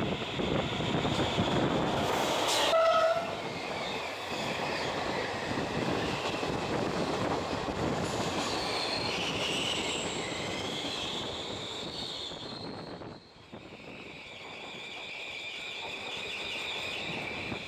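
Electric passenger train running through a rail tunnel: a short train horn blast about three seconds in, then the steady rush and rumble of the train in the tunnel, with high-pitched wheel squeal in the second half.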